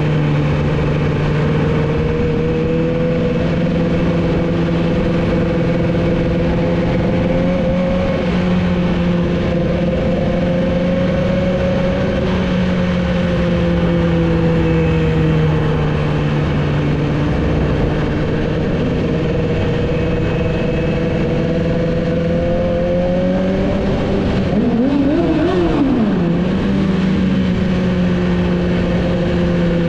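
Yamaha R6 inline-four sport bike engine through a Two Brothers full-system exhaust, heard from the rider's seat, pulling at fairly steady revs with slow small changes in pitch. About 25 seconds in there is a brief quick rise and fall in pitch before the engine settles back.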